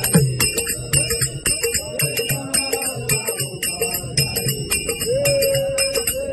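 Devotional bhajan playing: small hand cymbals (taal) keep a steady ringing beat over a hand drum, with a long held note coming in near the end.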